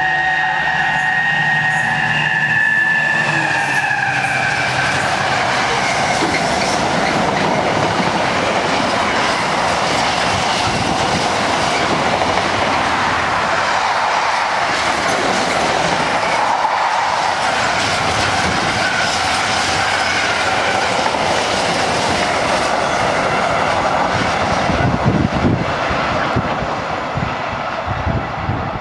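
A Class 70 diesel locomotive passes at speed, its engine howling with a strong pitched note that fades over the first few seconds. A long train of container wagons then rolls past with a steady rumble and clickety-clack of wheels over the rail joints. Near the end come a few louder wheel knocks as the last wagons go by.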